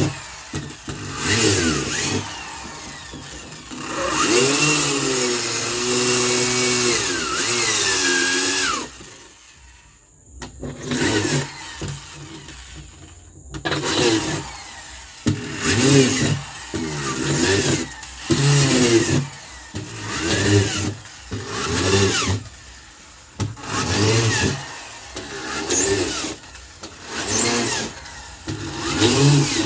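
Power drill boring drain holes through the bottom of a freezer. The motor runs for several seconds with its pitch rising and falling, then comes in short trigger bursts about every one and a half to two seconds.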